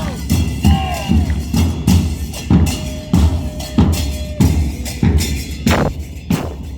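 Carnival parade percussion group playing a steady, driving rhythm, with deep bass-drum strokes a little more than once a second and lighter drum and wood-block strokes between them.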